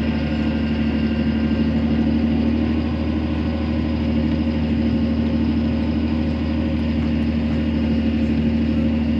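A vehicle engine idling steadily, an even low drone that holds unchanged throughout.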